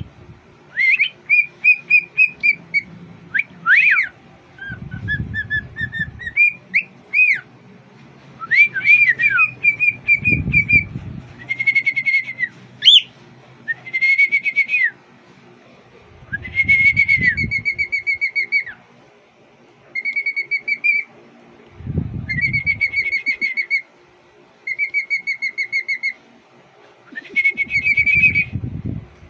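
Young cockatiel whistling its song: a string of short, off-key whistled phrases, some notes held and some broken into fast warbling trills, with pauses between them. A low rumble comes back about every five or six seconds underneath.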